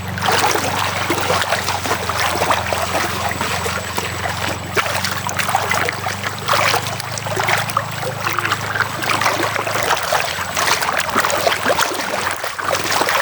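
River water flowing and splashing, a dense crackling gurgle, with a steady low hum underneath that fades about ten seconds in.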